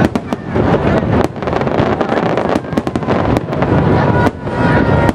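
Fireworks display in a rapid barrage, aerial shells bursting one after another over continuous crackling.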